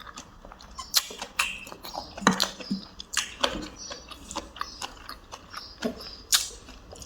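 A person chewing and lip-smacking while eating, with irregular sharp mouth clicks and smacks.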